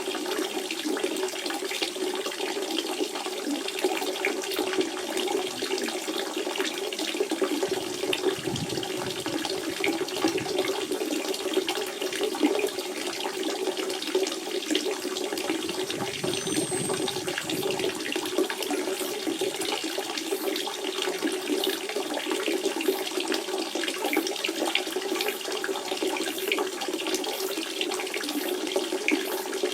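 Natural spring water running in a steady, continuous flow, with fine splashing throughout.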